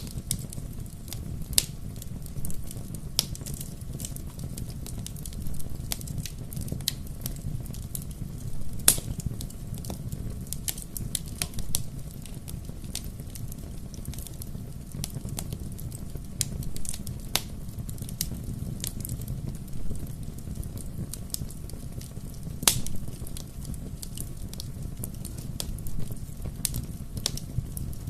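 Wood fire burning with a steady low rumble and irregular sharp crackles and pops, a few louder snaps among them.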